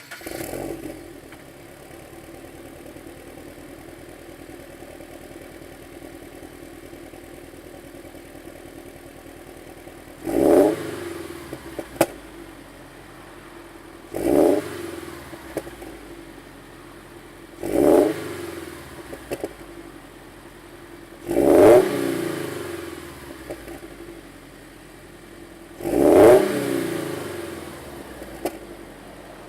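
Subaru BRZ's FA20 flat-four, breathing through an unequal-length header, a cat-delete front pipe and a Blitz Nur-Spec R catback exhaust, idling steadily for about ten seconds and then revved five times, each rev falling back to idle. The first three revs are to about 2500 rpm and the last two, louder, to about 4000 rpm. There is a sharp click shortly after the first rev.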